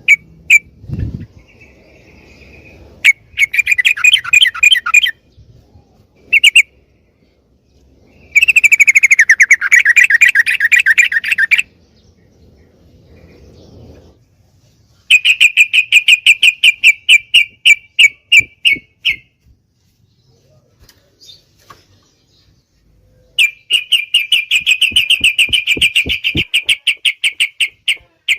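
Yellow-vented bulbul (trucuk) song: phrases of fast repeated chattering notes, each lasting a few seconds, four times with pauses and a few short calls between them. It is played as a tutor and lure recording for caged birds.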